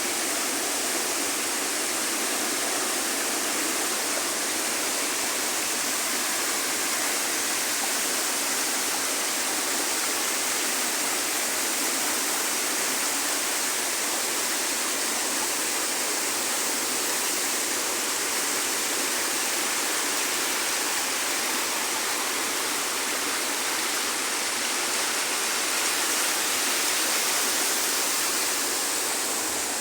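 Jungle river water rushing steadily, an even, unbroken wash of flowing water.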